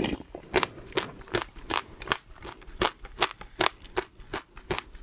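Close-miked chewing: a steady run of crisp, crackling crunches, about two to three a second, with a louder bite right at the start.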